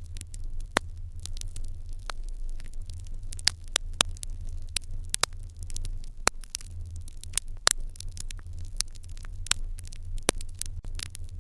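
Fire in an irori hearth crackling, with irregular sharp pops and snaps, several a second, over a steady low rumble.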